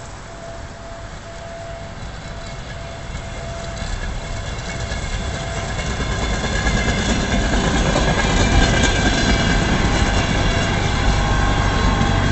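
Passenger train approaching and passing close by. Its rumble grows steadily louder over the first half, then stays loud with rail clatter and steady high whining tones over it.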